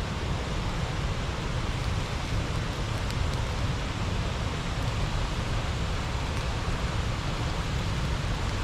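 Water rushing steadily over a small river weir, a constant even roar.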